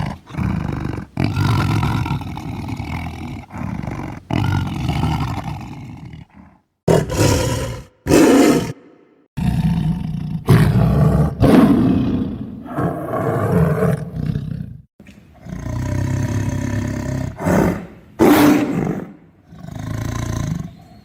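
Tiger roaring and snarling: a string of about fifteen short, loud roars, each a second or two long, with brief gaps between them. Several start or stop abruptly, as if edited together.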